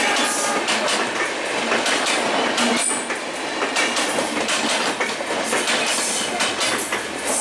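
Passenger coaches of the Chitra Express, a Bangladesh Railway broad-gauge train, rolling past close by: a steady rush of wheel-on-rail noise with irregular clicks and clacks as the bogies run over the track.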